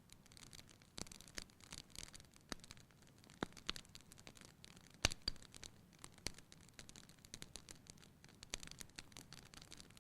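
Wood fire crackling in a fireplace: irregular small snaps and pops over a low hiss, with one sharper pop about halfway through.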